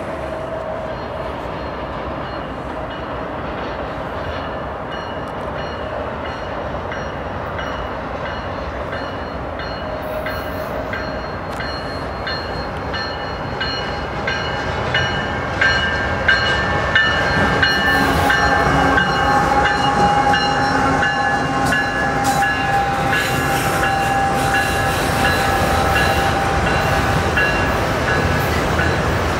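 A CN freight train led by GE ES44AC diesel locomotives approaches and passes, its engines and rolling double-stack cars making a steady rumble that grows louder about halfway through. Over the second half, several steady high ringing tones sound above the rumble.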